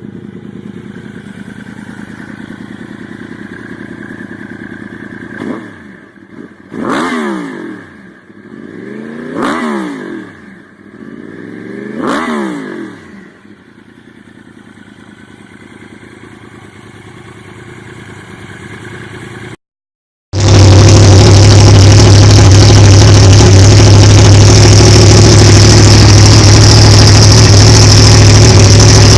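Motorcycle engine idling, then revved three times, each rev rising and falling in pitch, before settling back to idle. After a sudden break, a different, much louder engine runs steadily with a deep, strong drone.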